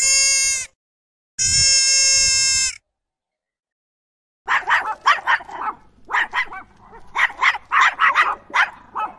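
Two long, steady bleats, then from about halfway in a small terrier yapping in a quick run of about a dozen short, high yips and barks.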